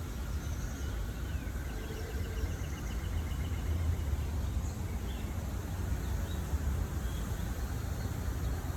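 Steady low rumble of distant city traffic, with small birds calling over it: a quick trill of evenly spaced notes a couple of seconds in, then scattered chirps.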